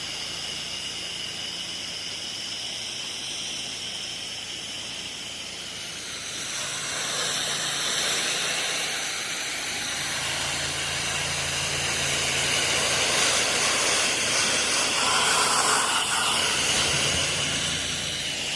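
An 8 GPM pressure washer spraying soft-wash chemical through a wide fan tip: a steady spray hiss that grows louder about six seconds in, over a low engine hum.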